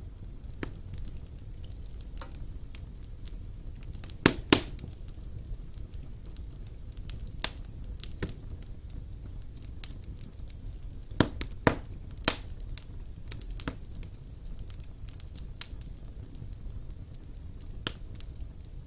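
Wood fire burning in a fireplace: a low steady rumble of the flames with scattered sharp crackles and pops of the logs, a few louder pops coming in pairs about 4 seconds in and again around 11 to 12 seconds in.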